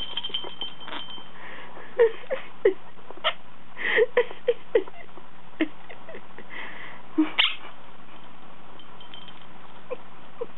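Quaker parrot playing with a bell toy: scattered knocks and clinks with brief bell ringing, mixed with short, soft calls from the bird.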